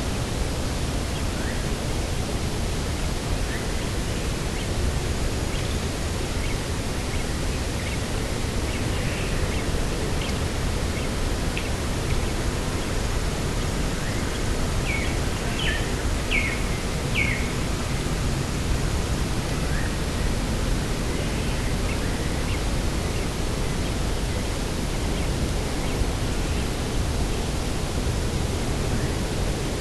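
Steady rushing noise of wind and sea on an open coast, heaviest in the low end. Small bird chirps come now and then, with a quick run of four about halfway through.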